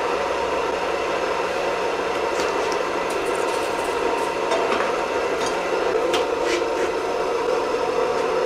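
Forge with its air blast running, making a steady noise with a low hum, and a few faint metallic clicks.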